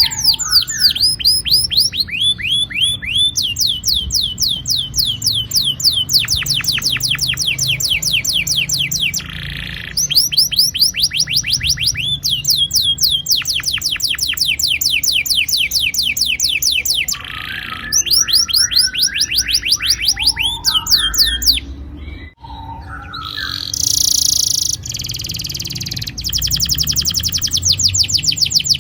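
Domestic canary singing long rolling trills: rapid runs of repeated, downward-sweeping high notes, broken a few times by short pauses.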